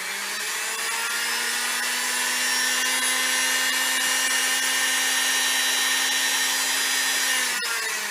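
Singer 247 sewing machine's electric motor running under the foot pedal: a steady whir that picks up speed over the first second, runs evenly, then slows and winds down about seven and a half seconds in. The machine has not been serviced but still sounds pretty good.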